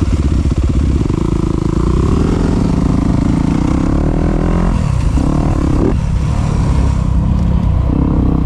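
Dirt bike engine running under throttle along a trail. Its pitch drops sharply twice, about five and six seconds in, as the throttle is rolled off, then climbs again. Heard through a GoPro's built-in microphone.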